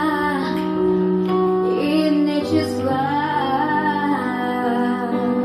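Recorded ballad with a female voice singing sustained, wavering notes between lyric lines, over held chords and a steady bass.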